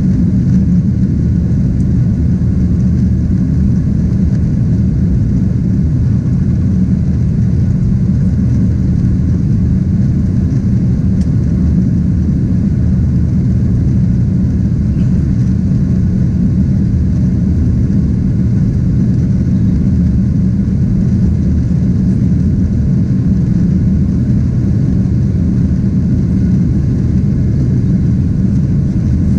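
Steady low drone of a Boeing 767-300ER's jet engines and rushing air, heard from inside the cabin.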